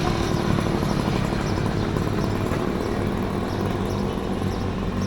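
A motorcycle engine running steadily, with a rush of road and wind noise.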